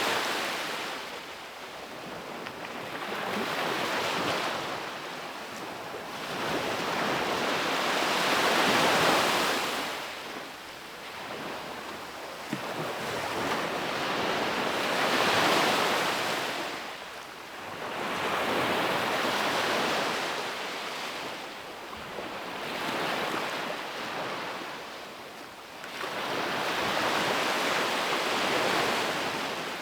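Ocean surf breaking and washing up a beach in slow surges, about one every five seconds, each swell rising and then fading.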